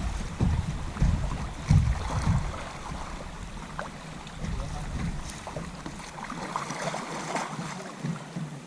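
Wind buffeting the microphone in gusts, heaviest in the first couple of seconds and again about five seconds in, over a light wash of river water around a kayak.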